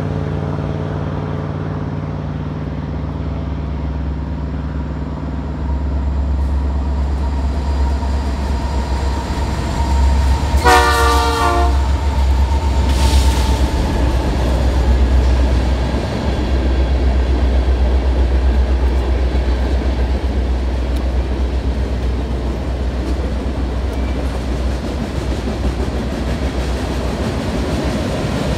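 Diesel freight locomotives running with a steady low rumble, with one short blast of the air horn about ten seconds in.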